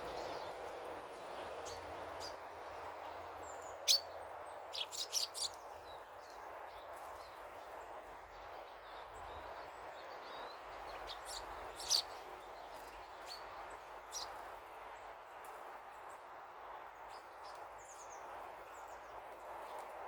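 Small birds chirping: short, sharp high-pitched calls, loudest in a burst of several quick chirps about four to five seconds in and again around twelve seconds, over a steady background rush.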